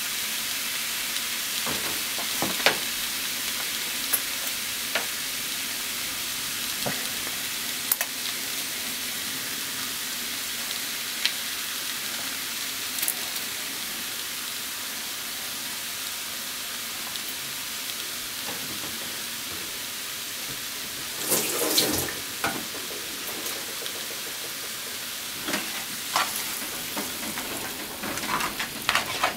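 Pork, potato and onion stir-fry sizzling steadily in a frying pan, with scattered pops and ticks. Near the end, tongs scrape and knock against the pan as the food is tossed.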